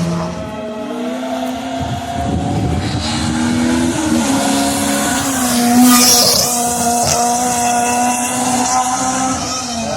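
Race car engine heard from on board, pulling through the gears with its pitch holding, dipping and stepping up between shifts. A short, sharp noisy burst stands out about six seconds in.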